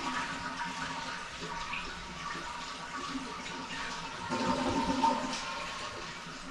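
One-piece toilet flushing: water rushing through the bowl, swelling about four seconds in and tailing off near the end. A test flush that goes down freely, with nothing blocking the line.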